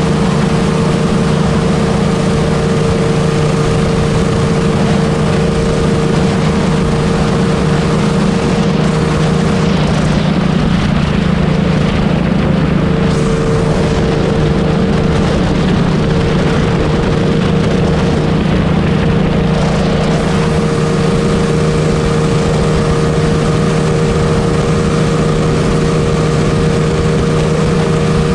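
Honda Wave 125 motorcycle's single-cylinder engine running at a steady cruising speed on the road, with wind rushing over the microphone.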